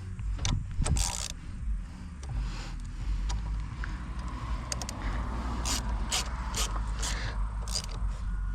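Diesel engine of a compact tracked machine running steadily, with a run of sharp metallic clicks and clanks from the track and undercarriage, most of them in the second half. The track has just been put back on after coming off.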